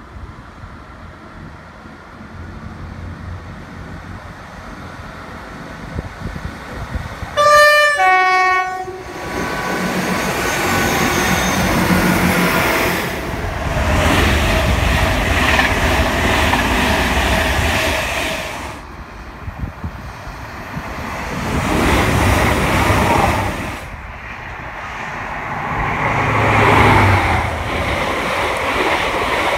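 InterCity 125 (Class 43 diesel power car) high-speed train sounds its two-tone horn, high note then low, about eight seconds in, then passes at speed: diesel engine and wheels on rails, with the engine of the rear power car coming through again near the end.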